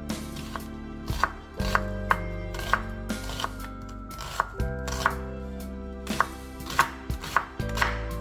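Knife chopping food on a cutting board in irregular strokes, over soft background music with held chords.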